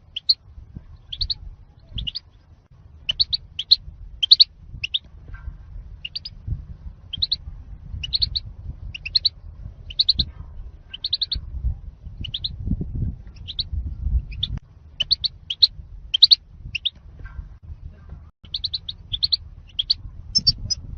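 European goldfinch calling: short, high, twittering chirps repeated in quick pairs and triplets, one to two groups a second, the kind of goldfinch call recording used to lure and tutor goldfinches. A low rumble runs underneath.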